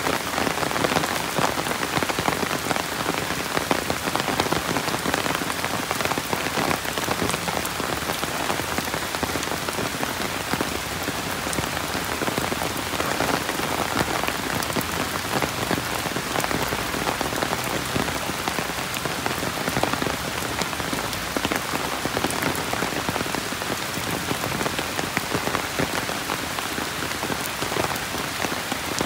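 Rain falling steadily: an even hiss made of countless small drop impacts, unchanging throughout.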